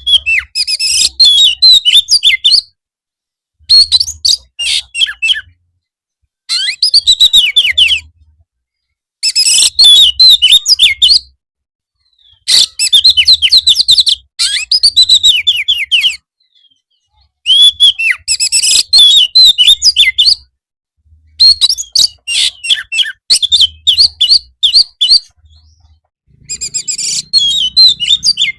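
Oriental magpie-robin (kacer) in full song: loud, rapid runs of varied whistles and trills. They come in bursts of about two to three seconds with short silent gaps between them.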